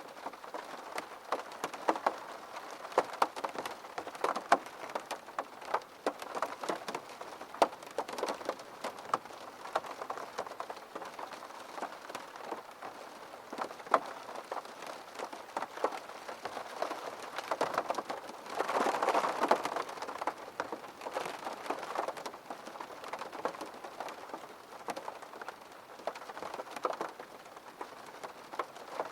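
Rain falling against window glass: a steady wash of rain with many separate drops tapping sharply, growing heavier for a couple of seconds about two-thirds of the way through.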